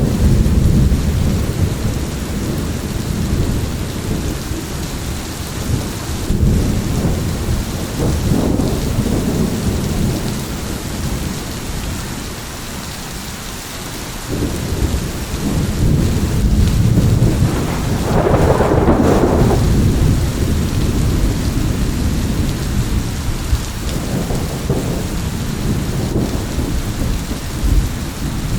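Thunderstorm: steady rain hissing, under long rolls of thunder that rumble, ease off about halfway through, then build again with a sharper peal a little after the middle.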